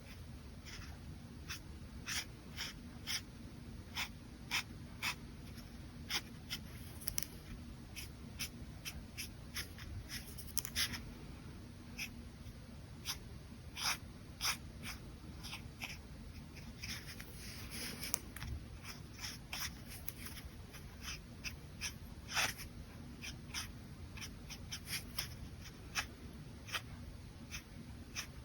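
Brush pen tip stroking and dabbing on paper: a rapid run of short, quick marks, with a few longer scratchy sweeps, about ten and eighteen seconds in, and one stronger stroke a little after twenty-two seconds.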